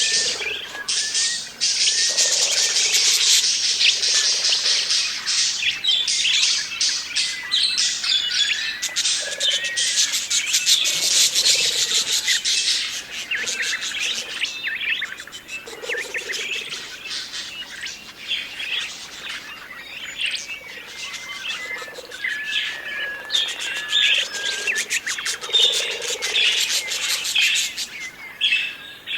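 A flock of budgerigars chattering and warbling, many chirps and short calls overlapping without a break; the chatter eases off a little in the second half.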